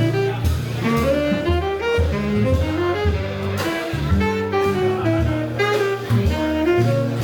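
Live jazz band playing: a melody line moving over a bass line that changes note about twice a second, with cymbals and drums keeping time.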